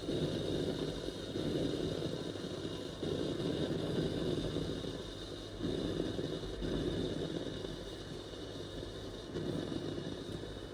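Sage espresso machine running: a steady hum with a low, noisy rumble that swells and drops every second or two.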